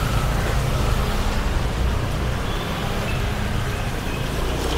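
Street traffic: vehicle engines running along with a steady hiss of road noise.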